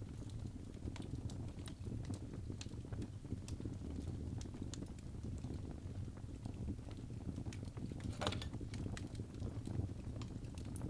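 Fire burning in a fireplace, crackling with scattered sharp pops over a low steady rumble; one louder crackle comes about eight seconds in.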